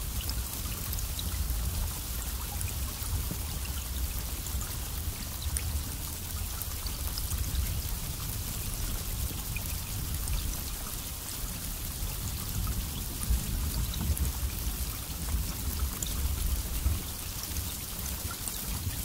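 Steady heavy rain with the patter of individual drops, over a low rumble.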